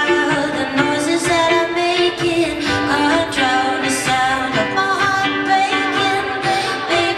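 Live band music: a held, sustained melody over a steady beat.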